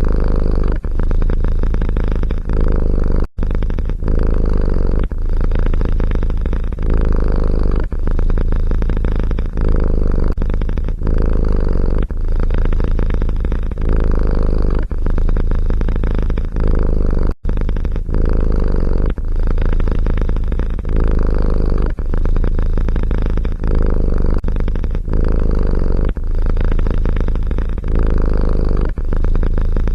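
Domestic cat purring loudly and close up: a steady low rumble that dips briefly about once a second as the cat breathes in and out. It is broken twice by a very short silent gap.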